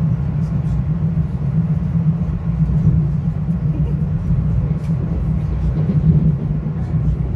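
Metro-North Hudson Line commuter train running at speed, heard from inside the passenger car: a steady low rumble of wheels on track, with a few faint light ticks over it.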